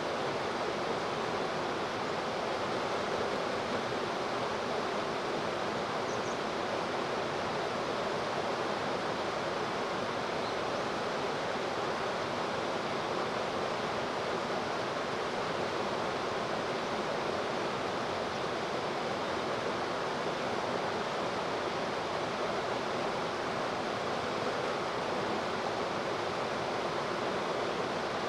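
Steady rushing of flowing river water, an even unbroken noise with no change in level.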